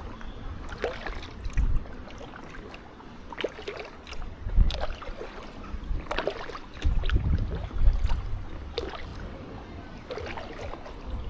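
Kayak paddling: a double-bladed paddle dipping and pulling through the water, with irregular splashes and drips every second or so. Gusts of wind rumble on the microphone at times.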